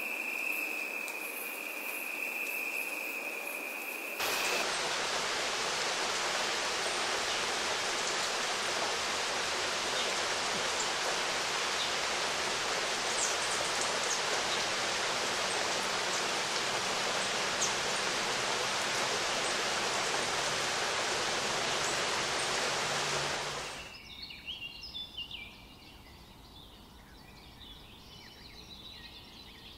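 A loud, even hiss that comes on abruptly about four seconds in and cuts off just as abruptly about twenty seconds later. Before it, a steady high tone; after it, small birds chirping faintly.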